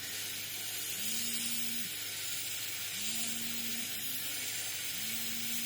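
Hot air rework station blowing a steady hiss of hot air onto the washing machine's control board, softening its protective coating. A low hum comes and goes about every two seconds.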